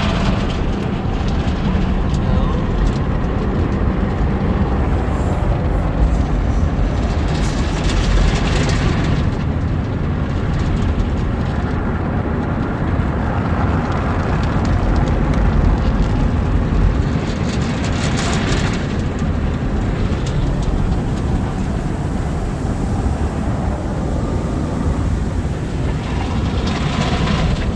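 Automatic soft-touch tunnel car wash heard from inside the car: a loud, steady rumble of water and brushes working over the car, with short surges of hissing spray about every ten seconds.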